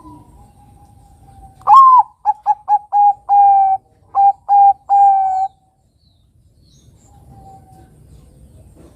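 Zebra dove (Bangkok-type perkutut) singing one cooing phrase: a rising-and-falling opening note, a quick run of short notes, then a few longer drawn-out notes that end about five and a half seconds in.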